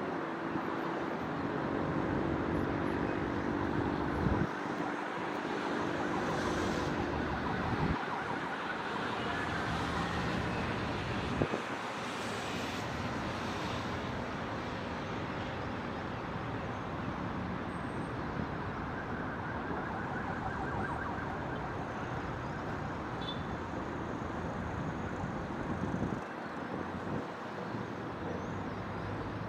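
Distant city traffic noise, a steady wash of road sound, with a steady hum in it for the first several seconds and a few faint knocks.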